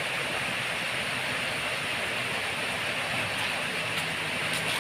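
Steady rain falling, an even hiss with no change in level, with a few faint clicks near the end.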